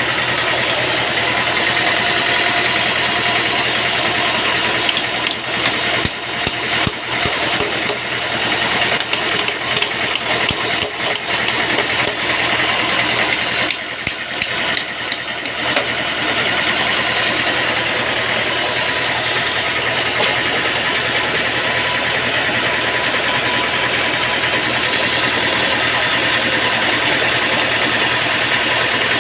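Engine-driven sawmill machinery running steadily, with irregular knocks and rattles for a stretch in the middle.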